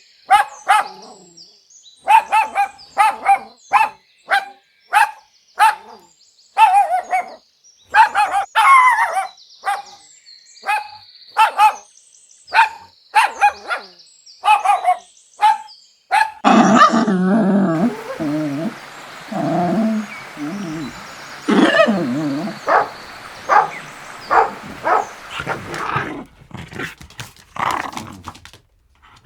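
Puppies barking: short, high barks about once a second. About two-thirds of the way through they give way to a denser, lower stretch of dog sounds, with further barks over it.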